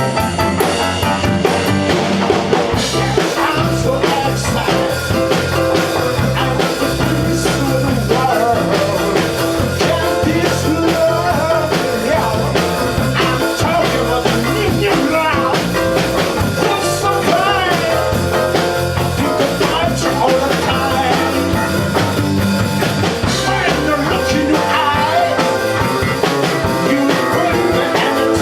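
Rock band music, a loud, steady blues-rock number with a full low end and a bending melodic lead line over it.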